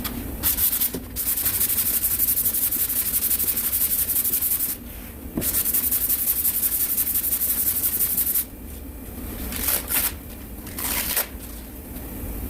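Sandpaper on a sanding block rubbed over cured body filler: two long spells of steady back-and-forth hand sanding, then a few short strokes near the end.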